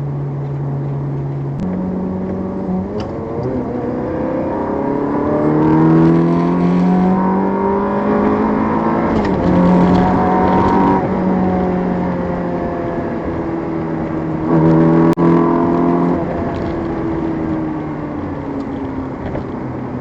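Ferrari 360's V8 with a Tubi exhaust being driven through the gears: the engine note climbs under acceleration, drops at each gear change and falls away when the throttle is lifted. A sharp click sounds about fifteen seconds in.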